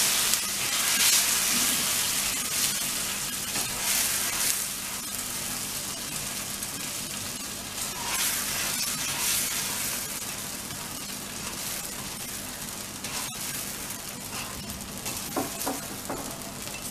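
Cucumber paratha (thalipeeth) batter sizzling in a hot pan after water was spread over it. The sizzle is loudest at first and slowly dies down.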